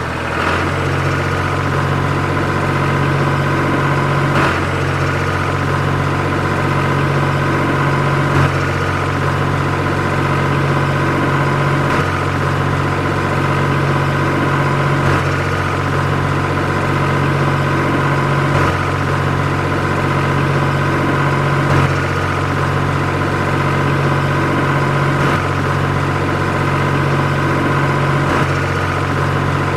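Steady engine idling drone, like a tractor's. It repeats with a faint click and a small change in tone about every three and a half seconds.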